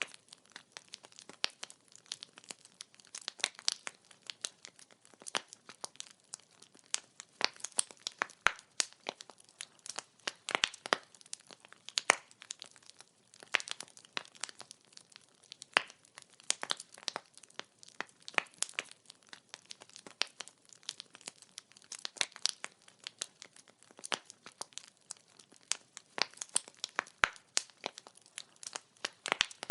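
Burning firewood crackling and popping, with many sharp irregular snaps over a faint hiss.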